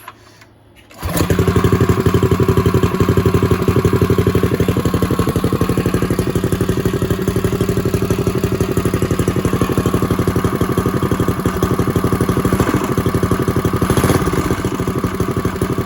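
Rebuilt Predator 212 single-cylinder four-stroke engine on a minibike starting about a second in and then running steadily, with no bearing knock.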